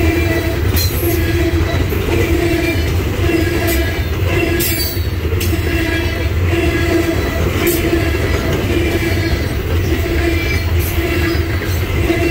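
Norfolk Southern coal train's hopper cars rolling past: a steady rumble of steel wheels on rail, with a hum that swells and fades every second or so. A few sharp clanks come through, about a second in, near the middle, and near the end.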